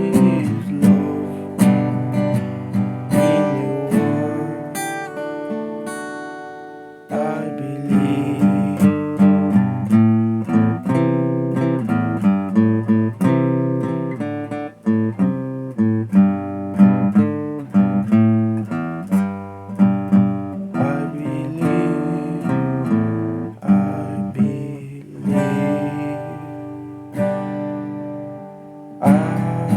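Acoustic guitar playing a picked and strummed folk accompaniment, with a held chord dying away about six seconds in before the playing picks up again.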